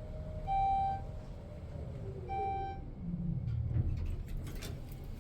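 Elevator car travelling up with a low hum, its floor-passing beep sounding twice, a single clear tone about two seconds apart. Near the end a low rumble and some clattering come as the car slows and stops.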